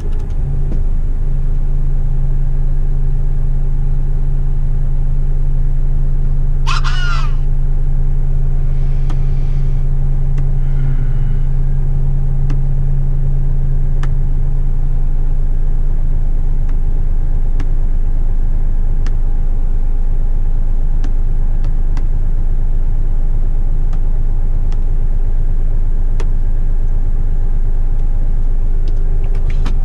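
Heavy rigid truck's diesel engine running at a steady, unchanging pitch while driving, with a brief high squeak about seven seconds in.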